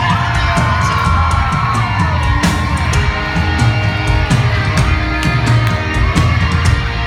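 Pop-rock band playing live, with drums, guitar and bass, heard as a crowd recording of the loud PA, with some crowd yells.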